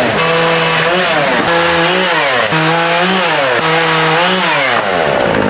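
Chainsaw engine revving up and dropping back about five times in a row, its pitch rising and falling with each blip of the throttle.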